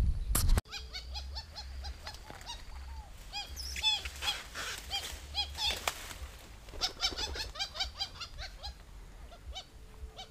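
Birds calling again and again in short, arched notes, some in quick runs, over a faint low rumble. A loud close rustle of handling the camera cuts off abruptly in the first second.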